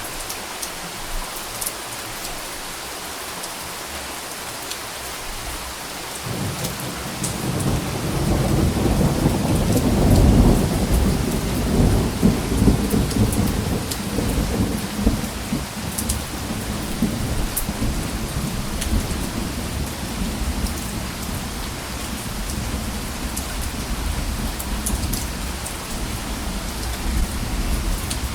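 Steady rain falling, with a rumble of thunder that starts about six seconds in, swells to its loudest a few seconds later and then fades into a long low roll under the rain.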